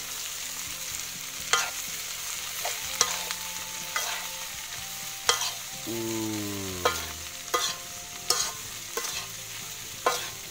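Cassava leaves frying in a pan with the spice paste, a steady sizzle while they are stirred. The stirring utensil knocks and scrapes against the pan about once a second. A brief falling tone sounds about six seconds in.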